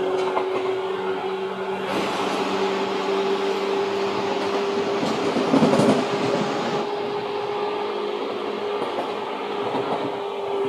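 Seibu 2000 series electric train running, a steady hum at one constant pitch over rumbling wheel and rail noise, with a louder rush of noise about halfway through.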